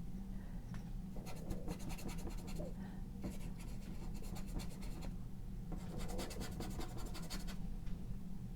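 Three runs of quick, scratchy strokes as paint is scrubbed onto the painting surface, each lasting a second or two with short pauses between them. A steady low hum runs underneath.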